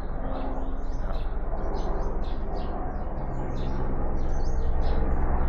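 Birds chirping repeatedly, with the low drone of a helicopter growing louder from about halfway through.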